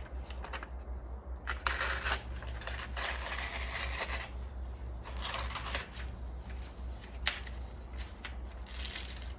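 Used axe blade being drawn and sawed through a thin sheet in several slicing passes, giving papery scraping and rustling, with a steady low hum underneath. The dull edge needs a slicing movement rather than a single pull.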